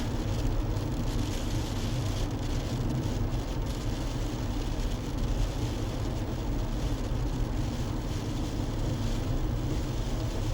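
Steady road and engine noise of a moving car, heard from inside the car, with a deep rumble and a constant hiss of tyres and wind.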